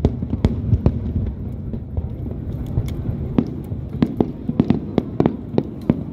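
Fireworks display: a run of sharp bangs from bursting shells over a steady low rumble. The bangs thin out about a second in and come thick and fast again from about halfway.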